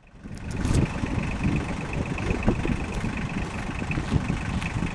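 An engine idling steadily with a rough, uneven low rumble, coming up in the first second.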